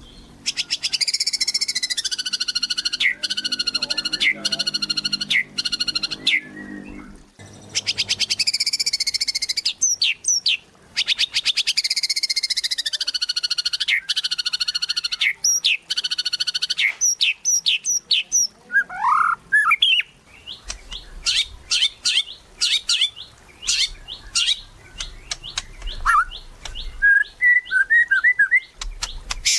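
White-rumped shama in full vigorous song: two long, buzzy, rapidly pulsed phrases that waver in pitch, then a string of short sharp chirps and whistles with a quick rising note.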